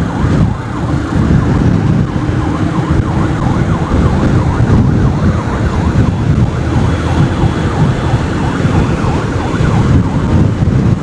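A siren warbling rapidly up and down, over loud wind and engine rumble from a moving motorcycle.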